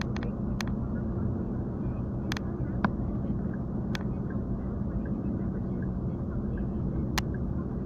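Steady low rumble of a car, with several short sharp clicks scattered through.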